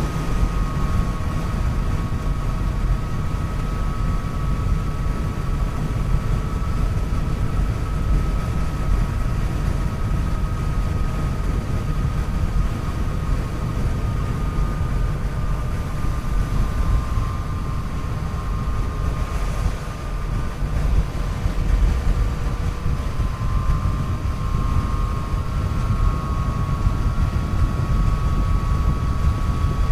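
Yamaha FJ-09's inline three-cylinder engine running at a steady cruise, heavily covered by wind rush on the onboard microphone, with a steady high whine that drifts slightly in pitch.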